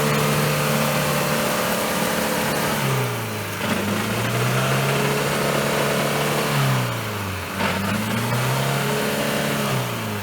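Off-road vehicle's engine revving hard, held high for a few seconds, then dropping and climbing again about three times as the driver works the throttle in deep mud. Right after, the vehicle is reported stuck.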